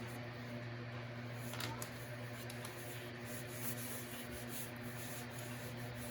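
Faint rustling and handling of paper as a journal pocket is positioned and pressed into place, with a slight crinkle about one and a half seconds in, over a steady low hum.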